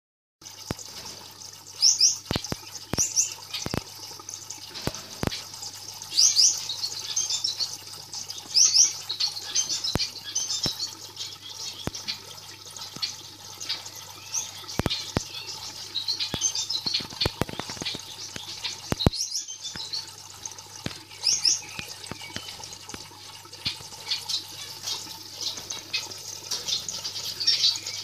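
Small birds chirping in short repeated calls every second or two, over a steady low hum with scattered sharp clicks.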